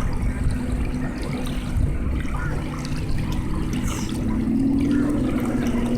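Small waves lapping and trickling at the shoreline over a steady low engine hum, which rises slightly in pitch about four seconds in.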